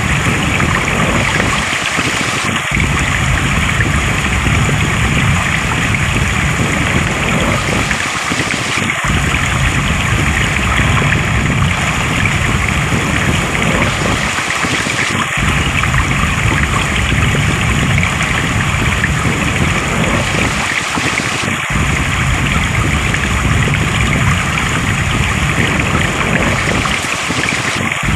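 Water flowing steadily in a stream, an even rushing noise. The deep rumble drops out briefly about every six seconds, as in a short recording looped over and over.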